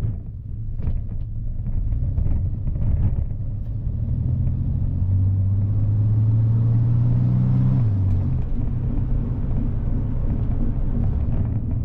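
1963 Chevrolet Corvair's air-cooled flat-six engine running on its rebuilt carburetors; its note climbs slowly for a few seconds, then drops away about eight seconds in.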